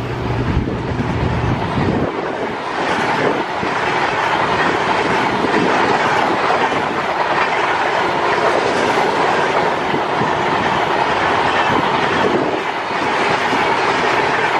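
Passenger coaches of a diesel-hauled express train passing at speed: wheels clattering over the rails with a steady high rail hum. The low drone of the diesel engine ahead of them dies away about two seconds in, leaving only wheel and rail noise.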